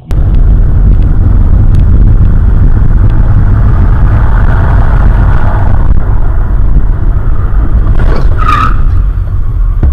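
Loud, steady low rumble of a car on the move, with a brief high squeal of skidding tyres about eight seconds in.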